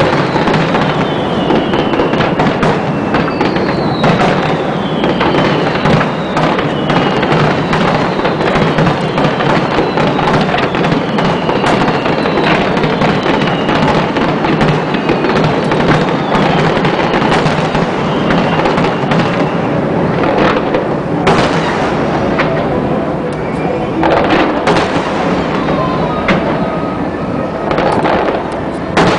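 A dense, continuous barrage of aerial fireworks: a rapid crackle of many bursts, with repeated falling whistles over it. Near the end the crackle thins and a few separate loud bangs stand out.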